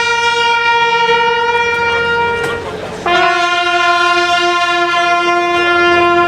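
Bugle call: a long held note, then after a short break a second long note a step lower.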